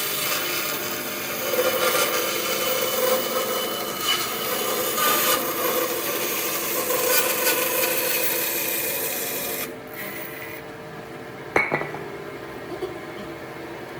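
A hand tool scraping and rubbing on wood in uneven strokes. The work stops abruptly, followed by a single sharp knock of wood or tool a little later.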